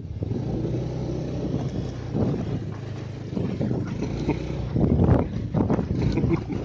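A vehicle's engine running as it drives over a rough, bumpy track, with irregular jolts and knocks.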